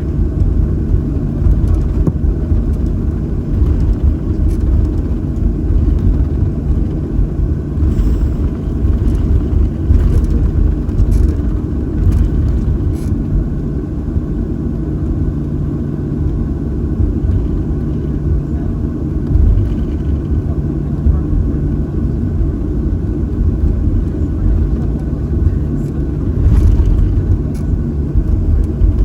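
Steady low rumble inside the cabin of a Boeing 737-800 on the ground, its CFM56 engines running at idle, with a few light clicks.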